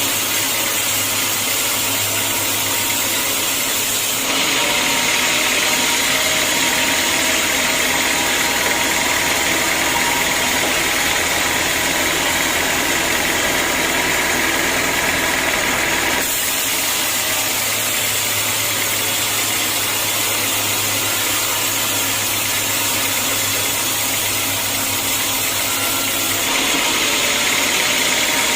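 Sawmill machinery running steadily. The sound changes abruptly three times, about four seconds in, around the middle and near the end.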